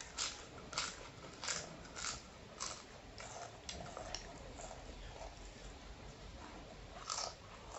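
Potato chips crunching in the mouth as they are chewed. The crunches come a little over half a second apart for the first three seconds, grow fainter, and one more comes near the end.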